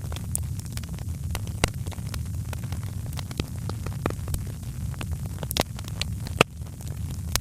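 Wood fire crackling in a fireplace: scattered sharp pops and snaps over a steady low rumble, with one louder pop a little after six seconds in.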